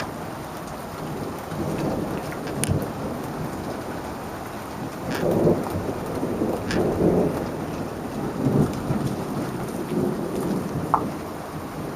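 Thunderstorm: steady rain falling, with rolling thunder rumbling in low swells about two seconds in and again through the middle, and a few sharp ticks of drops.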